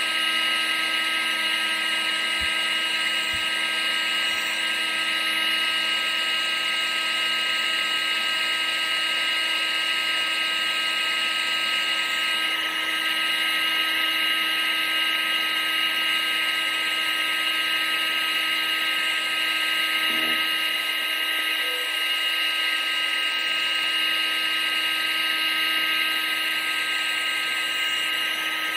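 Vacuum cleaner motor running steadily: a constant high-pitched whine over an even rush of air.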